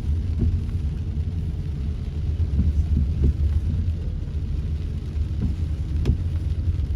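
Car driving through heavy rain: a steady low rumble of engine and road, with scattered light taps and one sharp click about six seconds in.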